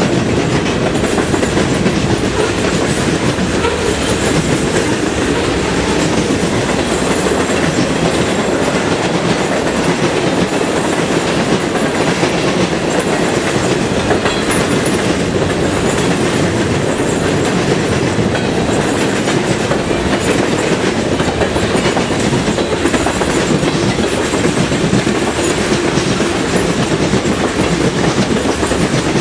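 Freight train cars rolling steadily past, wheels clacking over the rail joints with a continuous loud rumble and rattle.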